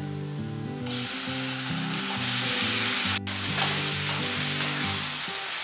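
Marinated chicken dropped into hot oil and fried onions in a frying pan, sizzling strongly from about a second in while a spatula stirs it, with a momentary break just after three seconds. Background music plays underneath.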